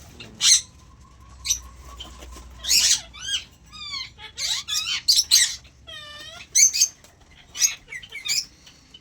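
Several caged aviary birds calling over one another: a string of short, harsh screeches, mixed with quick chirps and a held whistled note.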